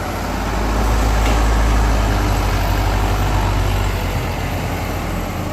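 Heavy diesel machinery engine running with a strong low hum, swelling louder about a second in and easing off again.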